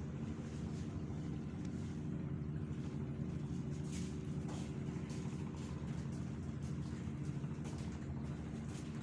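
Steady low drone of a ship's engine, a constant hum of several low tones that holds level throughout.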